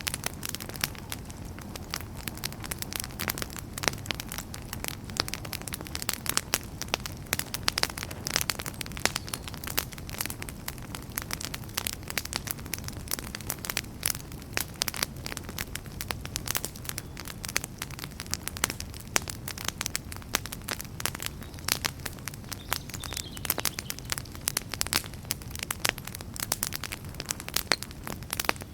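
Wood campfire burning, with dense irregular crackling and snapping over a steady low rumble of flame.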